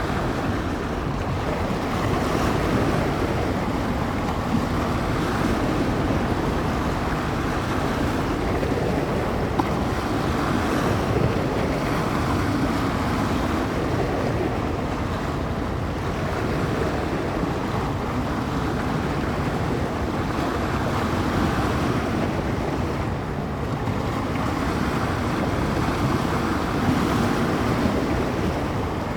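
Small bay waves breaking and washing onto the shore, swelling every few seconds, with gusty wind buffeting the microphone in a steady low rumble.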